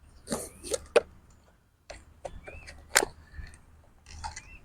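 A short rustle, then three sharp clicks or knocks about a second apart, the loudest about three seconds in, from handling the crashed RC hydroplane with its bent drive line.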